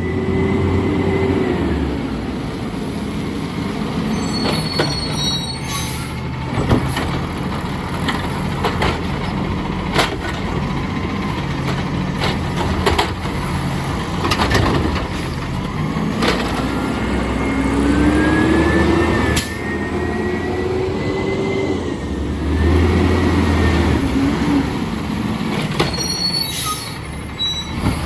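Amrep garbage truck running, its engine revving and its hydraulics whining upward as the lift arm and packer cycle, with scattered knocks and bangs of bins and metal. Steady hiss of heavy rain underneath.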